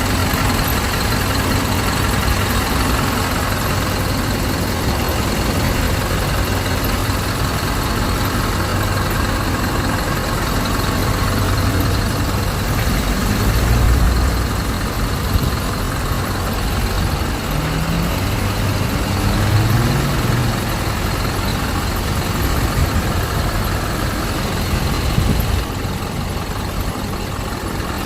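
A parked delivery truck's engine idling steadily, with the revs raised to about 1,000 rpm while the truck stands with no driver. A low swell comes about halfway through, and short rising sounds follow a few seconds later.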